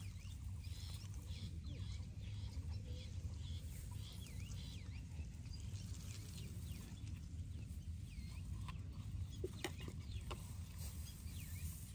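Birds calling over and over in short chirps above a steady low rumble, with a few sharp clicks late on.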